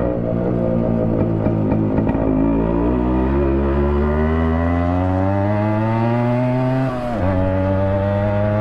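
Yamaha RX100's two-stroke single-cylinder engine, running loud with the mesh baffle taken out of its silencer. A few sharp pops come near the start, then the pitch rises steadily as the bike accelerates. About seven seconds in it drops sharply at a gear change and starts climbing again.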